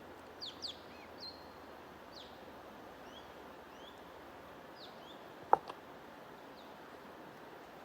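Small birds chirping, short high notes that sweep down in pitch, scattered over a steady rushing noise. A single sharp click is heard about five and a half seconds in.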